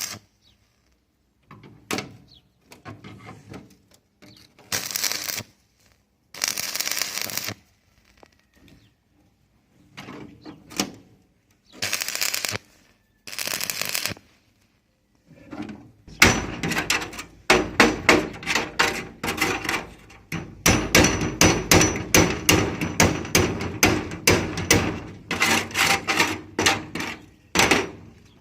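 Metal repair work: short separate bursts of harsh noise with silent gaps between them, then from about halfway a rapid, dense run of sharp metallic strikes.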